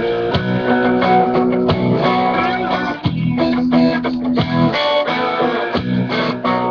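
Guitar music: strummed guitar chords over a low bass line, starting abruptly and playing steadily as a song's instrumental intro.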